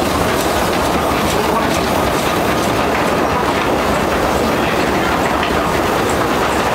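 Theme-park railway train running along the track at a steady speed, heard from inside an open-sided passenger carriage: a continuous, even rattle of wheels on rails.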